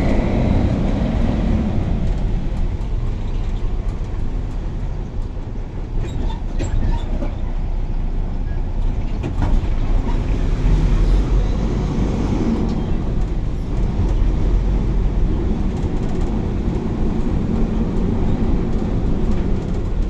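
Steady low rumble of a bus's engine and tyres, heard from inside the passenger cabin, with a few light rattles and knocks near the middle.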